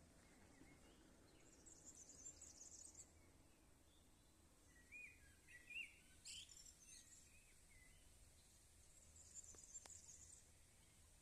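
Faint songbird calls: a high, buzzy trill about a second and a half in and again near the end, with a few short chirps in between, over a quiet background.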